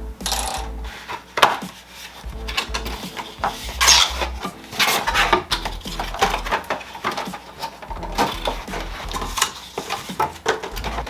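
Unboxing sounds: cardboard packaging and plastic-wrapped parts rustling, knocking and clattering as they are handled and lifted out of the box.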